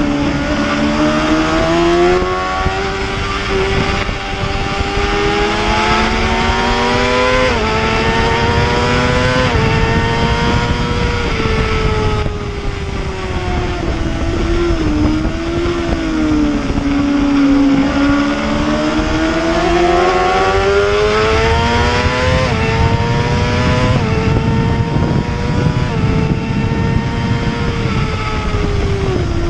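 Heavyweight superbike's engine at racing speed, climbing in pitch and snapping down at a quick upshift. It then falls away as the bike slows for a corner and climbs again as it accelerates back out.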